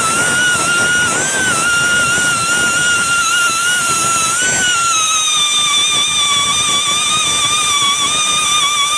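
Electric buffing tool polishing the outside of a repaired tyre: a steady high whine that drops a little in pitch about five seconds in.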